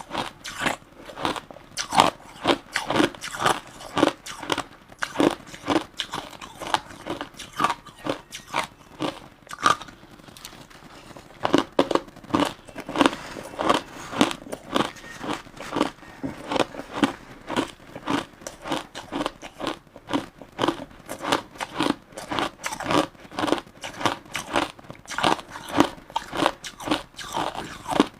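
Crushed ice being bitten and chewed, dense crunching several times a second, with a short lull about ten seconds in.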